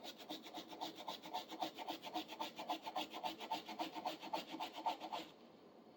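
Hand brush scrubbing a rusty steel wrench with baking soda, in quick back-and-forth strokes of about six a second that stop about five seconds in.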